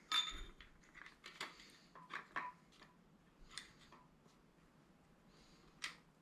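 A handful of light, scattered metallic clicks and clinks as a cam bearing installer tool carrying a new cam bearing is slid into the cam bore of a small-block Chevy 350 block.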